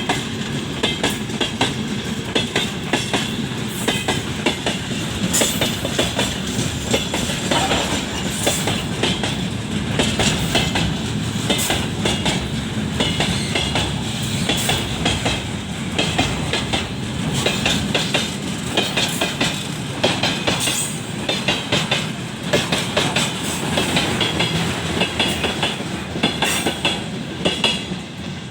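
A train rolling past, its wheels clicking over the rail joints in a steady, dense clatter that eases slightly near the end.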